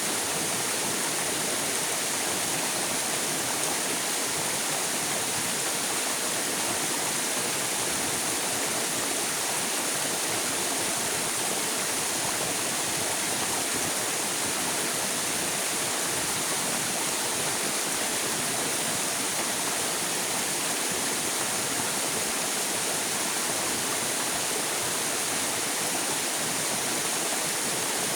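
River water flowing steadily, a constant rushing with no changes.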